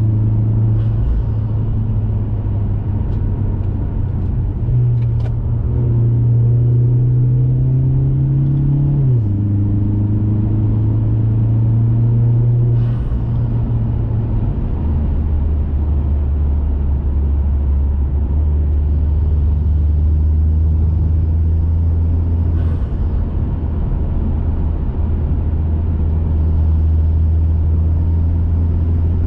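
2021 Mazda 3 Turbo's turbocharged four-cylinder engine and aftermarket cat-back exhaust under way: the drone climbs slowly in pitch, drops sharply at gear changes right at the start and about nine seconds in, then about fifteen seconds in falls to a lower, steady drone as the car cruises.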